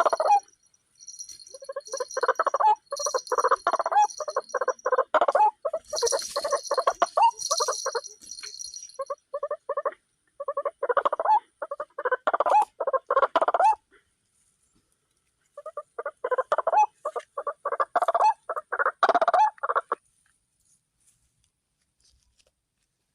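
White-breasted waterhen calling: rapid, harsh croaking phrases repeated in four bouts of a few seconds each, separated by short pauses, stopping near the end.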